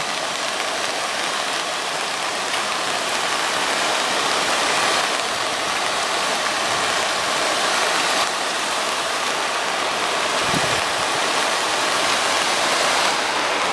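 Steady rush of a waterfall's falling water mixed with rain, an even noise with one brief low bump about ten seconds in.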